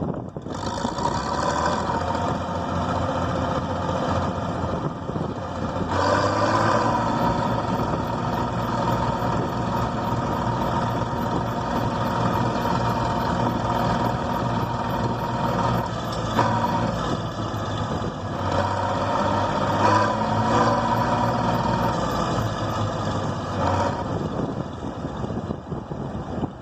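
Bizon combine harvester's diesel engine running, revved up about six seconds in and held at speed, dipping and rising again in the middle, then easing back down near the end.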